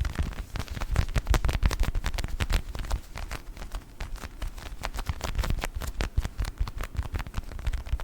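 A tiny children's ball handled close to an ASMR microphone, making a dense stream of rapid, irregular taps and crackles with a low rumble underneath.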